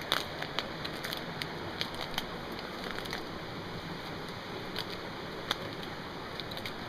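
Steady rush of falling water, with scattered sharp clicks and crackles over it, the loudest just after the start and again about five and a half seconds in.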